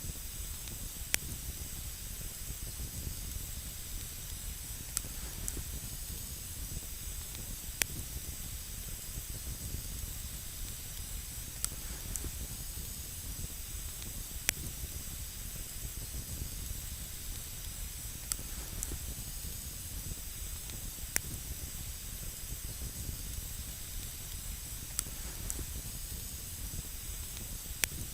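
Wood campfire burning on snow: a steady hiss with sharp crackling pops every few seconds.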